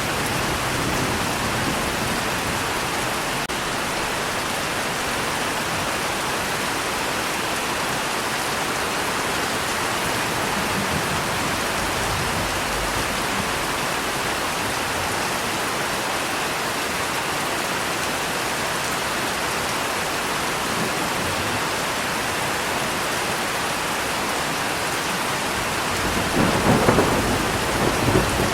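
Steady rain falling, with a roll of thunder swelling up near the end.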